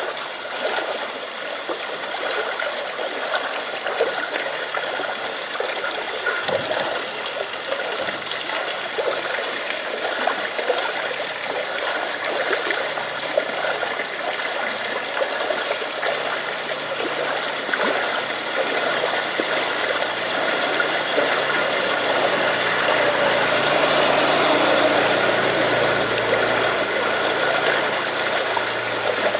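Steady rain and running water hiss on, with a low engine rumble building up in the second half and easing off near the end.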